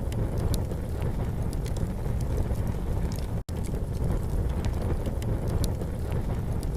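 Campfire crackling, with scattered sharp pops and snaps over a steady low rumble. The sound cuts out for an instant about halfway through, a break where the track loops.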